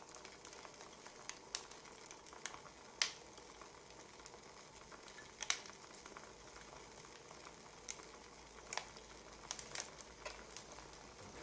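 Wood fire crackling: a soft steady hiss with irregular sharp pops, the loudest about three and five and a half seconds in.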